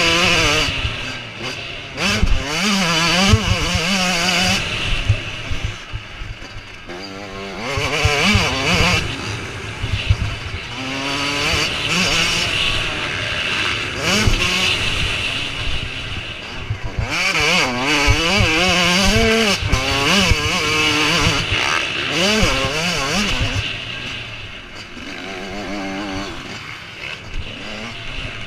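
Several motocross bikes racing, their engines revving up and down over and over as riders work the throttle and gears. The revving is heaviest in bursts, with lighter stretches around a quarter of the way in and near the end.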